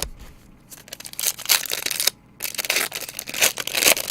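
A foil trading-card pack being torn open and its wrapper crinkled, in two long rustling stretches with a short gap between them.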